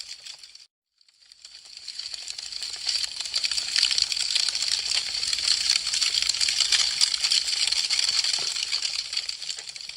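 Wood fire crackling, a dense run of small sharp pops and snaps. It fades out and cuts off briefly a little under a second in, then builds back up to a steady crackle.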